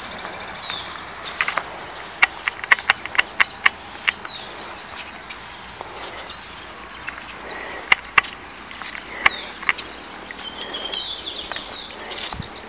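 Steady high drone of insects in woodland, with short bird chirps here and there. A run of sharp clicks comes between about one and four seconds in, and a few more near the middle.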